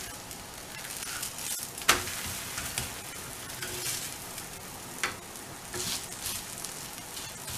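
Cucumber thalipeeth sizzling in oil on a hot iron tawa over high heat: a steady frying hiss with fine crackles. Two sharp clicks stand out, about two seconds in and again about five seconds in.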